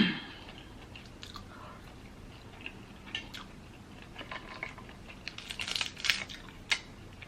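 Close-up eating sounds from a Dungeness crab seafood boil: soft chewing with scattered light clicks, a short run of crackles about five and a half seconds in, and a sharp click just after.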